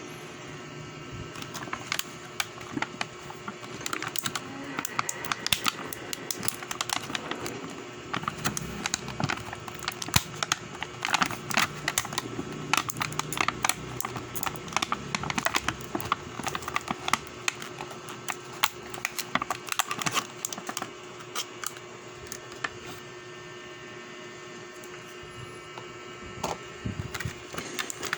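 Rapid, irregular clicking and tapping that thins out for a few seconds late on, over a steady low hum.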